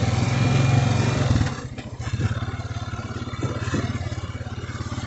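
Quad bike engine running, loud and steady for about a second and a half, then dropping to a lower, throbbing run as the loaded quad creeps off slowly. A thin high whine fades out about a second in.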